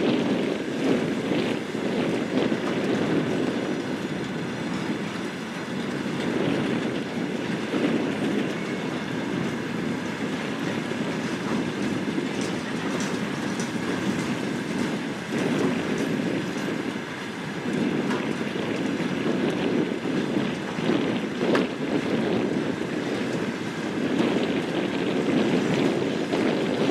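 Diesel train moving along the track, a steady rumble with scattered clicks of the wheels over the rails.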